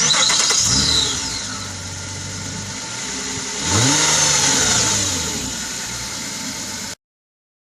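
2006 Nissan Altima SE-R's 3.5-litre V6 running through its exhaust. It comes in loud and settles to a steady idle. About four seconds in, one rev rises and falls back to idle. The sound cuts off suddenly near the end.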